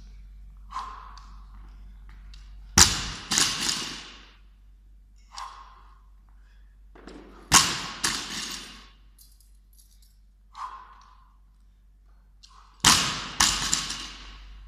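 Loaded barbell dropped onto the gym floor three times, about five seconds apart. Each drop is a loud thud, a second bounce about half a second later and the plates rattling as they settle.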